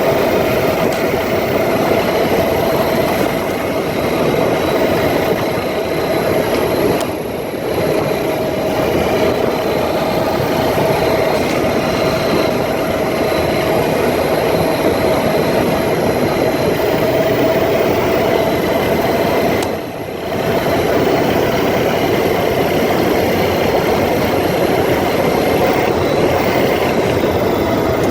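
ATV engine running steadily while riding, with the rush of travel around it and a steady drone; the sound dips briefly twice, about seven seconds in and about twenty seconds in.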